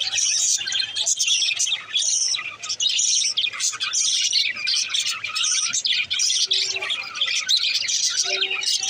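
Budgerigars chattering and warbling, a dense, continuous stream of quick high chirps. A low steady tone sounds briefly near the end.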